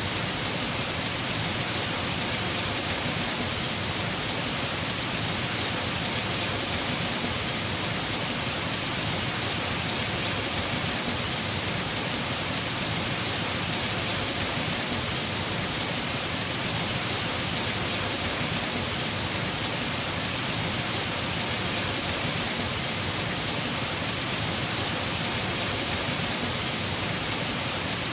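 Heavy rain falling steadily on a house roof, an even hiss with no let-up.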